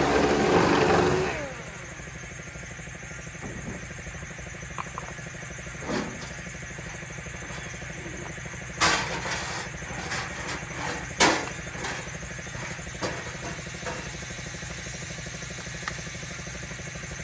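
A loud, dense machine-like sound cuts off about a second in. It leaves a steady low motor hum, broken by a few sharp knocks and clicks.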